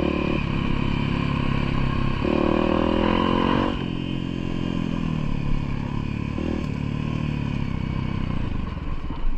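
Engine of an off-road trail vehicle running under throttle. Its pitch steps up about two seconds in, then drops sharply as the throttle is eased, and it runs on lower and steady.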